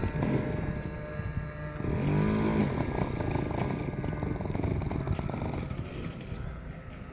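Engine of a Hangar 9 Piper Pawnee 40 RC model airplane running in flight. Its pitch bends about two seconds in as it passes, and it fades away over the last second or two.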